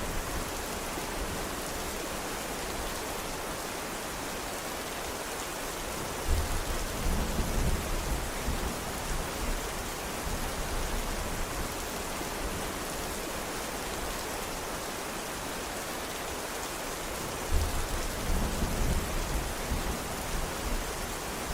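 Steady, even rain, with two low rolls of thunder, the first starting suddenly about six seconds in and the second about seventeen seconds in, each rumbling for a few seconds.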